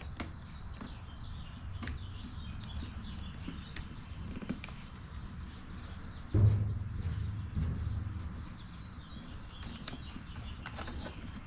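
Birds chirping over a low steady rumble. About six seconds in, a louder low rumble starts suddenly and fades over about two seconds.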